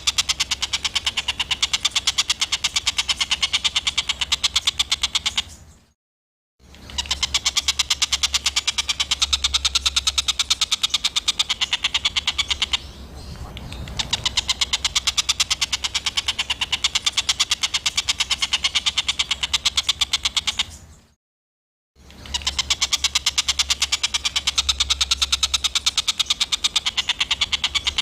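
Recorded small songbird giving a harsh 'tembakan' call: fast runs of rasping notes, several a second, in long bursts broken by two brief silences, about six and twenty-one seconds in.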